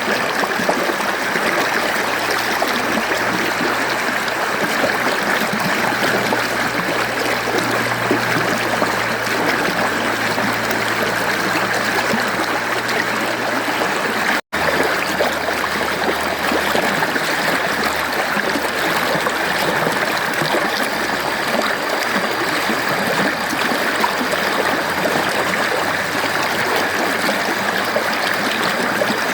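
Mountain stream flowing steadily, an even rush of water with no change in level. A split-second gap in the sound falls about halfway through.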